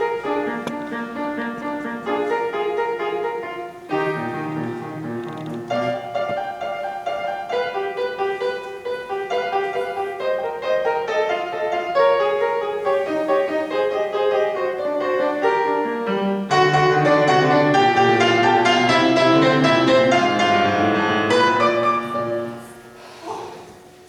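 Piano playing a classical-style piece, growing fuller and louder about two-thirds of the way through, then dying away near the end.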